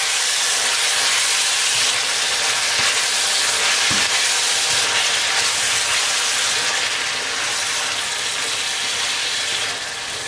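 Ground beef, onions and bell pepper strips with tomato passata sizzling steadily in a pan while a silicone spatula stirs them.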